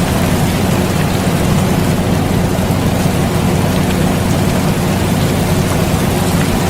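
Air conditioner running with an even hum and low drone, mixed with steady rain falling as an unbroken hiss with faint scattered drop ticks.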